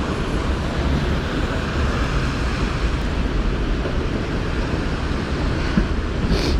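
Strong storm wind buffeting the microphone: a steady, heavy low rumble with a hissing haze over it, from a thunderstorm squall's gusts.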